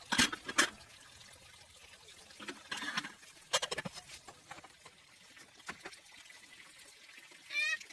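Water pouring and splashing in short spurts, with a few knocks, and a short high call near the end.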